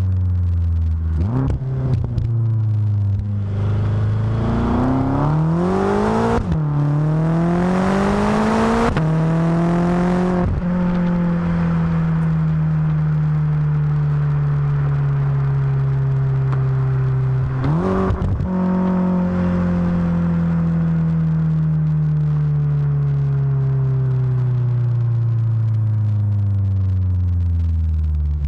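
BMW F10 M5 twin-turbo V8 exhausting through Supersprint rear mufflers, accelerating hard through several quick upshifts in the first ten seconds, then running on with the revs slowly falling, with one more gear change about eighteen seconds in.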